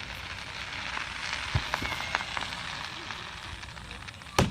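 Fireworks crackling in a dense patter of small pops, with a few sharper cracks among them and one sharp bang near the end.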